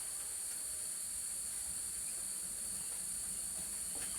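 A steady, high-pitched chorus of insects, like crickets or cicadas, with a faint click near the end.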